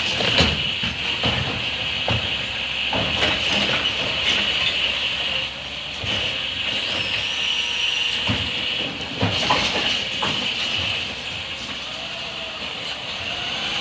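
Garbage truck at work: a steady hiss with repeated knocks and clattering throughout.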